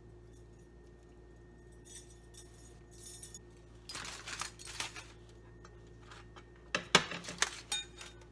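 Utensils clinking and scraping against a plate as food is served. A few light clinks come first, then a scrape about four seconds in, then a cluster of sharper clinks near the end.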